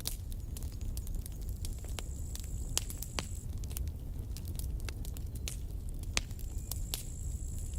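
Campfire burning with irregular sharp crackles and pops over a steady low rumble. A thin high whistle comes in twice, each time for about two seconds.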